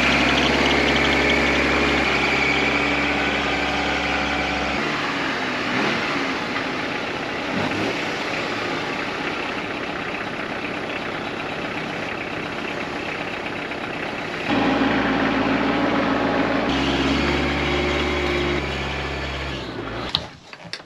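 Kubota tractor's diesel engine idling steadily while it warms up after a cold start in sub-zero cold. Its level and tone shift abruptly a few times.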